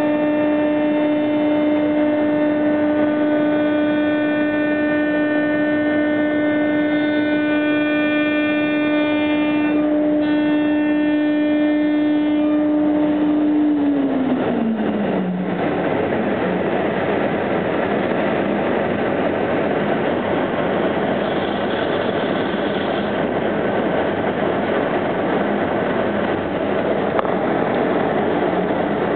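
CNC machine running with a steady high whine, rich in overtones. About 14 seconds in, the whine slides down in pitch and gives way to a dense, even rushing noise.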